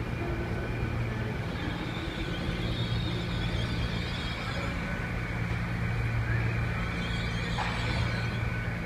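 Great Western Railway Class 800 train running in the platform, its engines giving a steady low hum with a faint steady whine above it.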